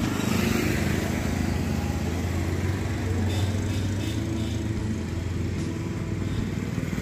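A motor vehicle's engine running with a steady low hum, amid road noise.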